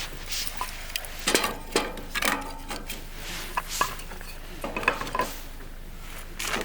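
Dishes and metal utensils being handled: irregular clinks and knocks, a few with a brief ring.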